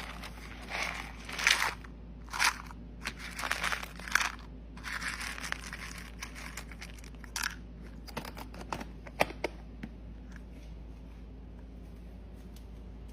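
Irregular crinkling and crunching, like paper or plastic being crushed or torn, in a run of short uneven bursts that die away about ten seconds in, over a faint steady low hum.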